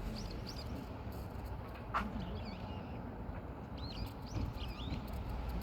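Small birds chirping: short high notes, scattered in little groups, over a low rumble.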